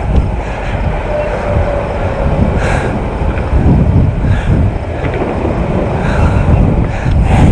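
Honda XR650L's big air-cooled single-cylinder four-stroke engine running, with a loud low rumble that swells and eases. A few brief knocks are heard along the way.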